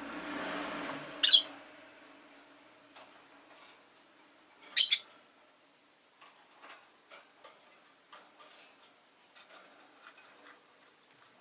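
Rosy-faced lovebird giving two short, loud, sharp calls, one about a second in and one near the middle, with faint scattered clicks and taps between and after them. A brief swell of hiss fades away in the first second.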